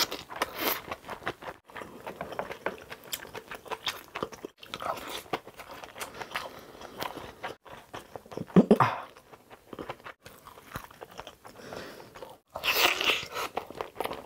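Close-miked chewing of a mouthful of crunchy kimchi: wet crunches and mouth clicks, with louder bites about 9 and 13 seconds in.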